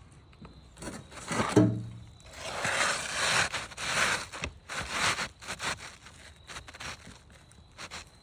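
Asphalt roof shingles being handled, scraping and rubbing against each other and the roof deck in a run of rasping strokes, loudest in the middle. A brief low pitched sound comes about a second and a half in.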